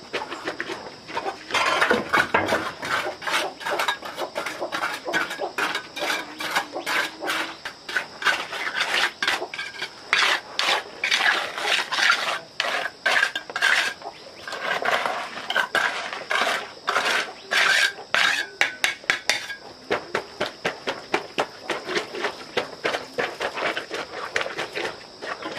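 Dishes and metal utensils clattering: a rapid, irregular run of clinks and knocks.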